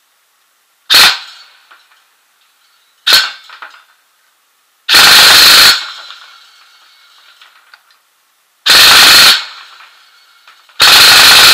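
Electric airsoft replica firing on an 11.1 V LiPo battery through a MOSFET: two short single bursts, then three full-auto bursts of just under a second each. Each burst is very loud.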